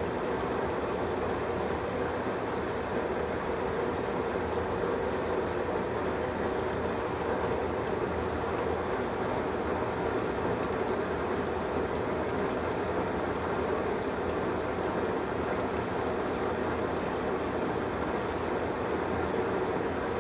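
Magic Chef 1.6 cu ft portable washing machine's drain cycle: the drain pump running steadily as the wash water rushes out.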